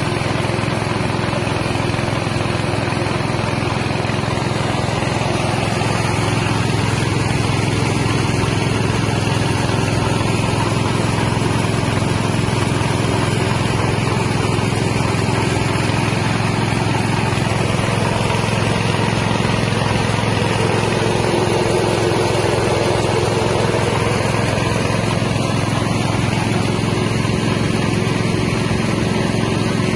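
Small rice-milling machine running steadily, its single-cylinder 6.5 hp engine droning without a break.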